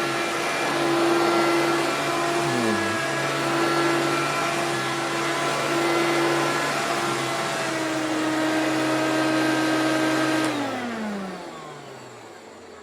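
Hoover PowerMax bagged, self-propelled upright vacuum cleaner running, with one brief dip in motor pitch a couple of seconds in. About ten seconds in it is switched off, and the motor whine falls in pitch as it spins down.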